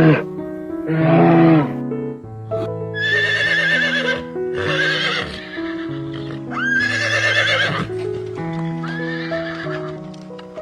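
Horse neighing about five times, each call a wavering, shaking cry of about a second, over background music.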